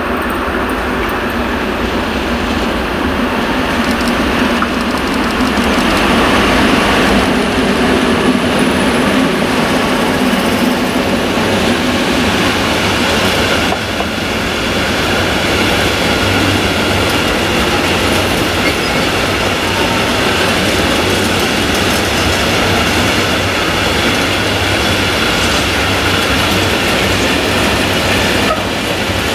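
Class 241 diesel locomotive hauling a train of tank wagons past: the locomotive's engine drone in the first part, then the steady rumble and clatter of the loaded tank wagons' wheels rolling over the rails.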